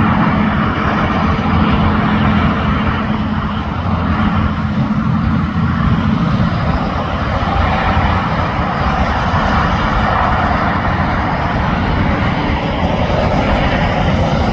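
Heavy interstate highway traffic: a steady roar of tyres and truck engines, with a diesel engine hum standing out for the first half.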